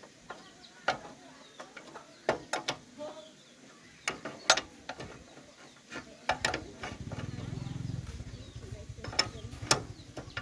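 Metal hand tools clinking and clanking on motorbike engine parts in scattered sharp strikes, with ratchet-like clicking. About six seconds in, a low steady hum starts and carries on under the clanks.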